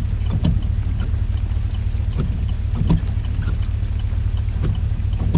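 Steady low rumble inside a car cabin in hurricane conditions, with scattered light taps and knocks.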